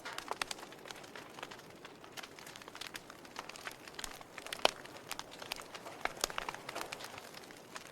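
Wood fire crackling in a fireplace: irregular sharp pops and snaps over a faint hiss, with one louder pop a little past halfway.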